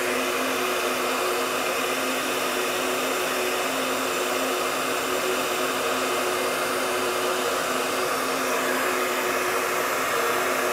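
Heat gun running steadily on its full heat setting: an even blowing rush with a steady motor hum underneath.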